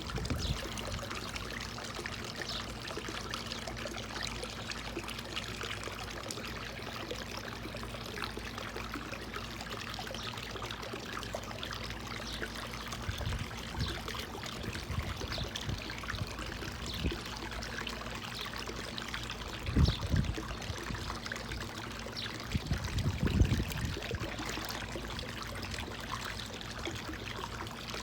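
Steady running water, like a small stream or fountain, with two short low thumps about twenty and twenty-three seconds in.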